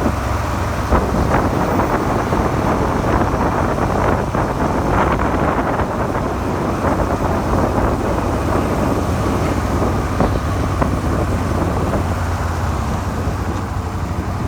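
Suzuki SV400 V-twin engine running steadily while the motorcycle cruises in sixth gear at about 60 km/h, with wind rushing over the microphone.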